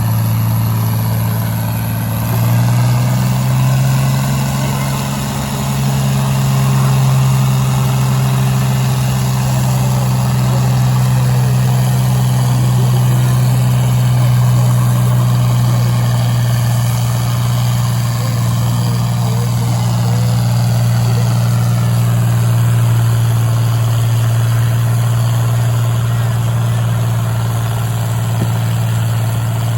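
Pulling tractor's engine running steadily under heavy load as it drags the weight sled slowly down the track. Its pitch steps up slightly a couple of seconds in, then holds even.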